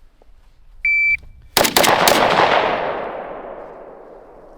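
Shot timer's start beep, a single high electronic tone about a third of a second long. About 0.7 s later come three gunshots, two in quick succession and a third slightly later, making up a Mozambique drill (two to the chest, one to the head). Their echo fades over the next couple of seconds.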